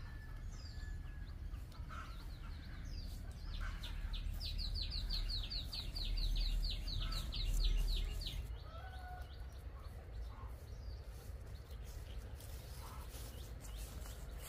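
Birds chirping, with scattered single calls and a fast run of about twenty high, falling chirps lasting some four seconds, from about four seconds in. Under them a low rumble swells in the middle.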